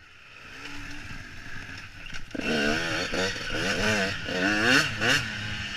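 Dirt bike engine heard from the rider's helmet, quiet and off the throttle at first, then from about two seconds in revving up and down over and over as the bike is worked across rough ground.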